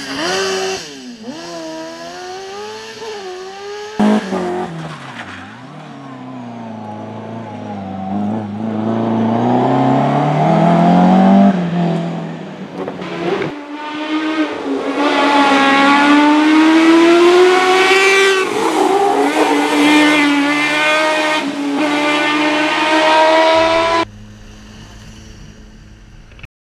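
Race car engines at full throttle, the revs climbing and dropping through gear changes and lifts, with tyre squeal. The sound changes abruptly a few times as one car's run gives way to another's. Near the end there is a quiet, steady low engine idle that stops suddenly.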